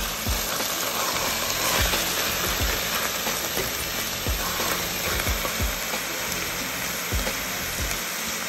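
Chopped onions and minced garlic sizzling steadily in oil in a stainless steel pot.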